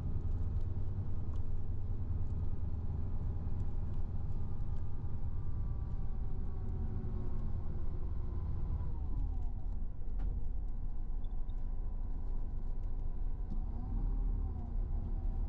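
Tour bus heard from inside the cabin while driving: a steady low engine drone whose pitch falls about nine seconds in, then dips and rises again near the end as the bus changes speed.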